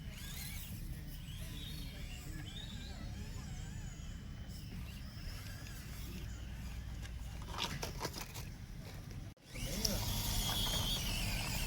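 Faint, wavering high whine of a micro RC crawler's small electric motor over a low rumble of wind on the microphone. About nine seconds in the sound cuts off abruptly and a louder stretch follows.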